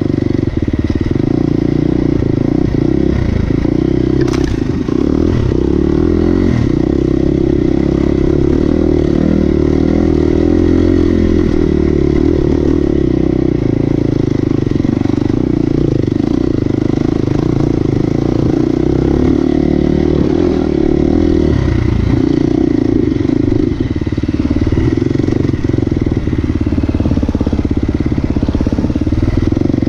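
Motorcycle engine running steadily under load, its note wavering and dipping briefly about two-thirds of the way through, with a sharp click about four seconds in.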